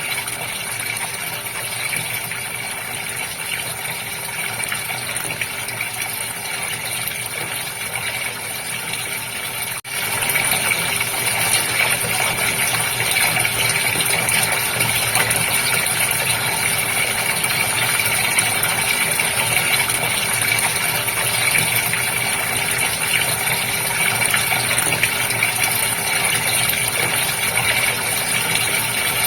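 Goldfish aquarium water splashing and bubbling steadily over a steady mechanical hum, typical of the tank's pump. About ten seconds in it cuts out for an instant and comes back a little louder.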